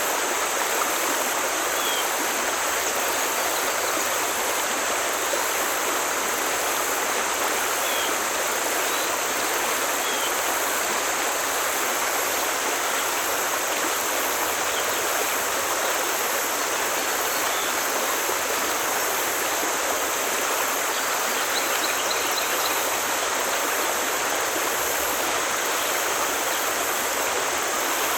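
Forest stream flowing, a steady, even rush of water, with a few faint high chirps now and then.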